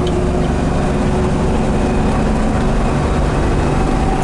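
Crate 350 cubic-inch V8 of a 1967 Chevrolet El Camino running at a steady cruise under way, heard from inside the cab with road rumble beneath it.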